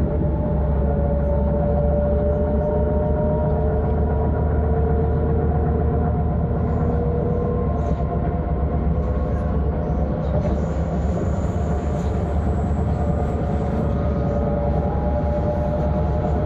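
Electric S-Bahn train running between stations, heard from inside the carriage. A steady rumble of wheels on rail runs under the whine of the electric drive, which holds several tones that drift slowly in pitch.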